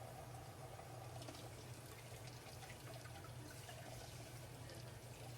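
Faint steady trickle of running water, over a low steady hum.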